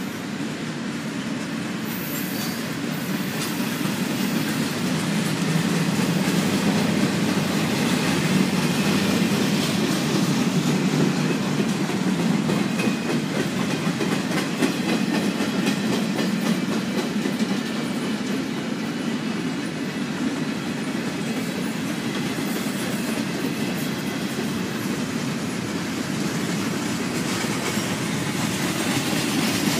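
Double-stack intermodal freight train rolling past close by: a steady rumble of steel wheels on rail with a continuous clickety-clack over the rail joints.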